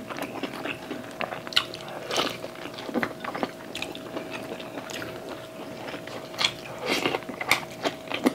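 Close-miked eating: people chewing meat with wet mouth smacks and short, sharp clicks scattered throughout, over a faint steady hum.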